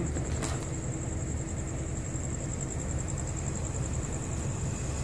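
Steady low rumble of a standing passenger train at a station platform, with a thin high whine over it and a single faint click about half a second in.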